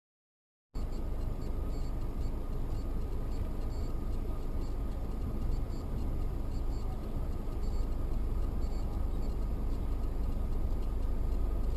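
Car driving, heard through a dashcam microphone: a steady low rumble of engine and road noise with a faint steady whine. It begins suddenly after a short dead-silent gap near the start.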